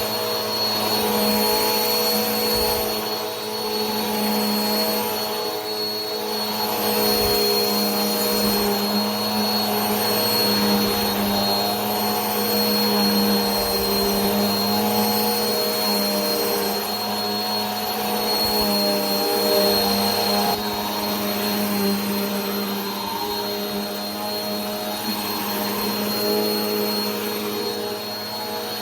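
Vacuum cleaner running continuously: a steady motor hum with a thin high whine over a broad hiss of rushing air.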